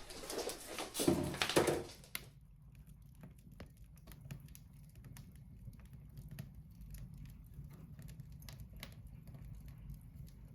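Wood fire crackling in a fireplace: irregular sharp pops and ticks over a low steady hum, after about two seconds of louder rustling noise at the start.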